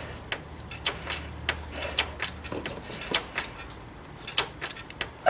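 Raindrops tapping on a small tent overhead: scattered, irregular sharp ticks, about two or three a second.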